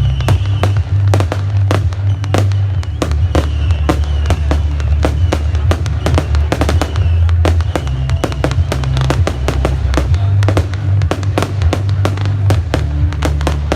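Fireworks display: a rapid, unbroken run of bangs and crackles, several a second, over loud music with a heavy bass line.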